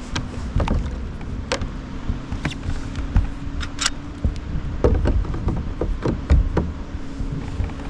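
Irregular knocks and clicks of gear being handled against a plastic sit-on-top fishing kayak, over a steady low rumble.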